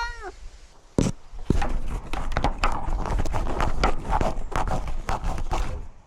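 The end of a cat's meow, falling in pitch, fades just after the start. A knock follows about a second in, then a stretch of close, irregular scratching and rustling from the cat moving with the camera strapped to it.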